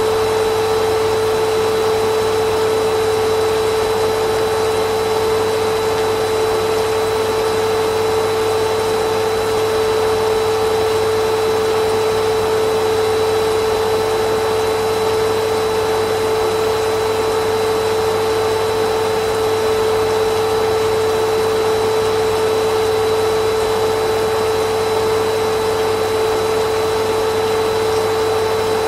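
Vacuum cleaner motor running steadily, a constant rushing hum with a strong steady whine and no change in speed.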